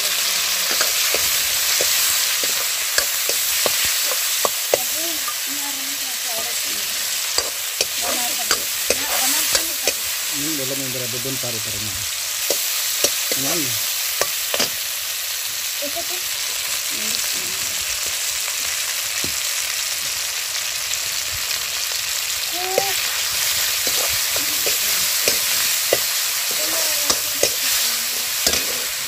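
Tomatoes, onions and garlic sizzling in hot oil in an iron kadhai, with a steady hiss, while a steel ladle stirs them, its edge knocking on the pan in scattered sharp clicks.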